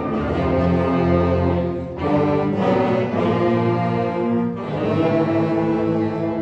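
Wind ensemble playing, with brass and low winds holding full chords. The phrases break off briefly about two seconds in and again a little past four and a half seconds.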